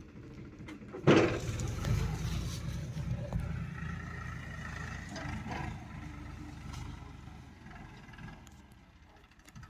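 A sharp knock about a second in, then a diesel farm-machine engine running with a low rumble that gradually fades away.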